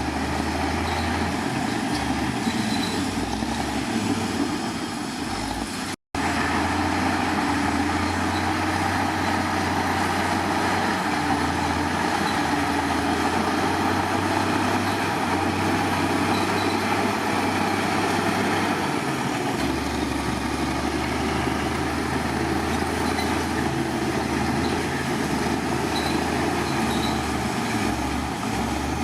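Heavy earthmoving machinery's diesel engine running steadily at work, with its low rumble shifting as the load changes. The sound cuts out briefly about six seconds in, then carries on.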